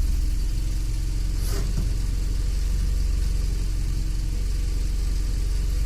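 Engine of a homemade all-terrain vehicle idling steadily.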